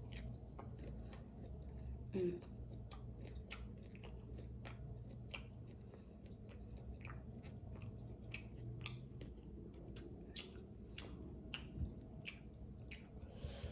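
A person chewing and smacking food close to the microphone, a string of irregular wet mouth clicks, with a brief low voice sound about two seconds in.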